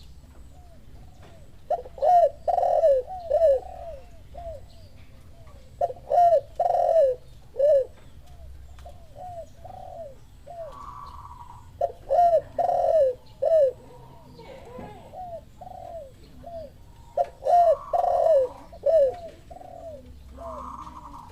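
Doves cooing, a derkuku (Sunda collared dove) lure call with tekukur (spotted doves) answering. The cooing comes in four phrases, each about two seconds of several rolling coos, every four to six seconds. A shorter, higher call comes twice between the phrases.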